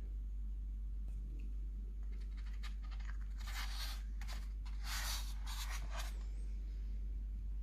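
Packaging being handled during an unboxing: several short bursts of rustling and crinkling, the loudest two about three and a half and five seconds in.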